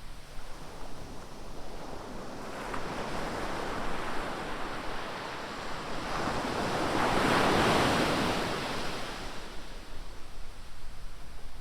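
Ocean surf: waves washing onto the beach, one breaker building to a loud crash and wash about seven to eight seconds in, then easing off. Wind buffets the microphone at the end.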